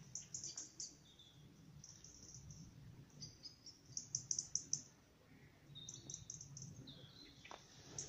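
Small songbirds calling in short runs of quick, high chirps, a run every second or two, over a faint low rustle.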